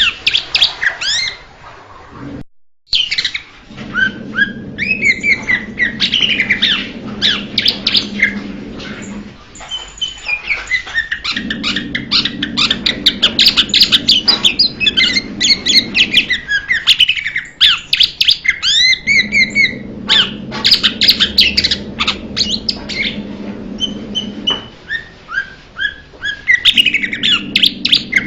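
Blue-winged leafbird singing: rapid, varied runs of chirps, whistles and sweeping notes in long phrases, with a short break about two and a half seconds in.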